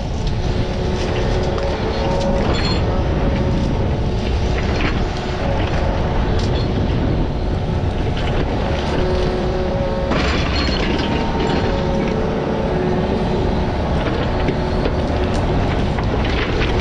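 Diesel digging machine running steadily, with a steady whine over a low rumble and scattered clanks; a harsher, noisier stretch starts about ten seconds in.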